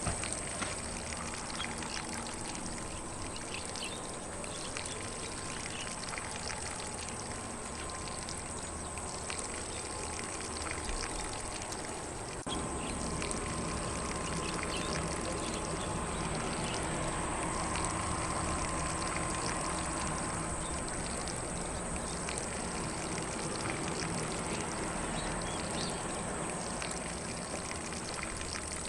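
Lawn sprinkler spraying water steadily across grass, as a continuous hiss that gets slightly louder about halfway through. A steady high-pitched insect drone runs under it, with occasional faint bird chirps.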